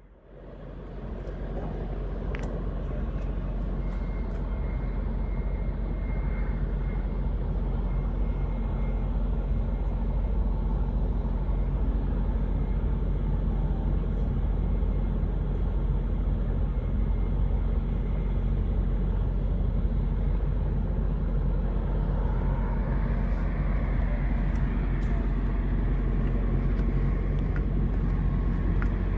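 A vehicle engine running steadily with a low, even hum, fading in over the first second or two.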